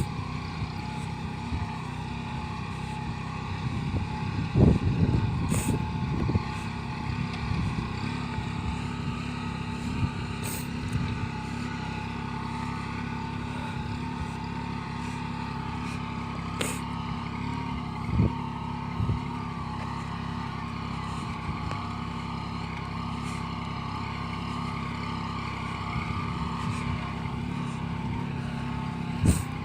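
Kubota B2441 compact tractor's three-cylinder diesel engine running steadily, with a few brief knocks.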